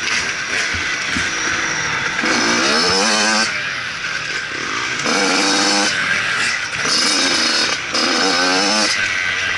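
Motocross bike engine revving up and dropping back again and again, in bursts of about a second each, over a constant rushing hiss.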